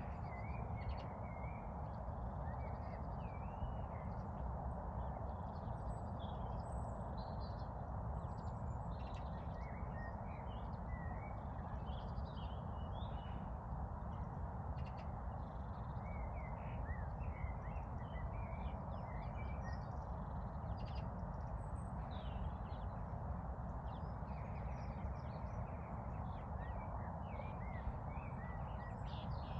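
Several songbirds chirping and trilling in short, overlapping phrases over a steady low background hiss.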